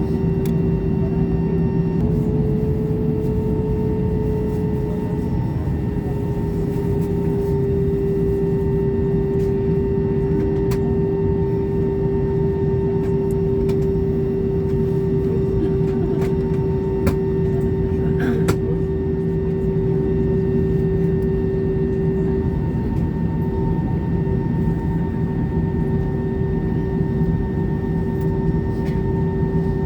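Airbus A320 cabin noise: the jet engines running with a steady low rumble and a steady hum that steps slightly higher for a few seconds near the start, heard from inside the cabin. A couple of faint clicks come near the end.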